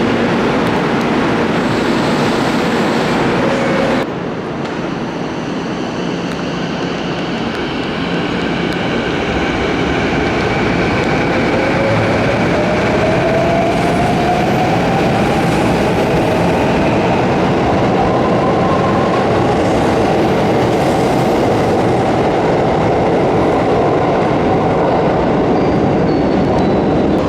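Electric commuter train at a station platform, its motor whine rising steadily in pitch over several seconds as the train accelerates away, over the rumble of wheels on rail. The sound cuts abruptly to a different train about four seconds in.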